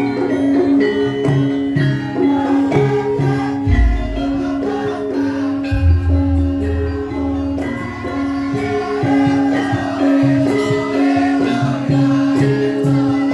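Javanese gamelan music for a lengger dance: metallophones strike a steady melodic pattern over a held low note, with deep drum strokes about four seconds in and again around six seconds. A voice sings over the ensemble in the second half.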